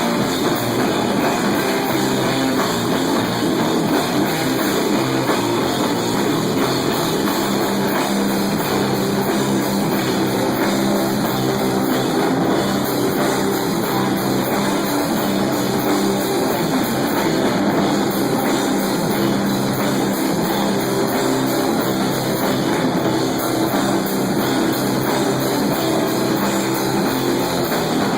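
Stoner metal band playing live: loud, dense rock with electric guitar, bass and drum kit.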